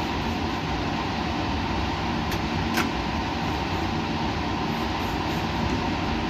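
Steady mechanical rumble and hiss with a constant low hum, and two brief faint clicks half a second apart about two and a half seconds in.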